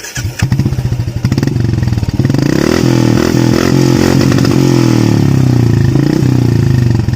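Royal Enfield Classic 350's single-cylinder four-stroke engine, breathing through a modified aftermarket exhaust, catching as it begins and then running loudly, its revs rising and falling a little.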